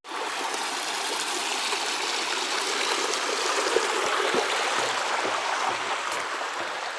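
Small stream running steadily, an even rush of water with no change throughout.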